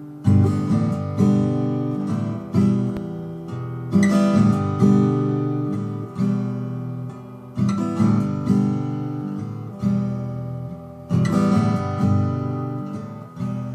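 Recording King RD-127 acoustic guitar strummed in a steady rhythm of chords, each strum ringing out and fading before the next, between sung verses.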